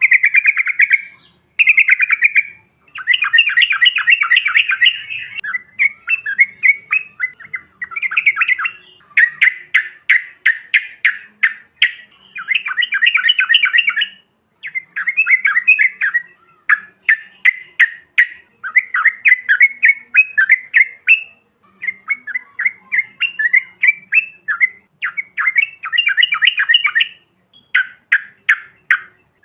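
Yellow-vented bulbul song: loud bursts of rapid, bubbling chattering notes in phrases of one to three seconds, with short breaks between them.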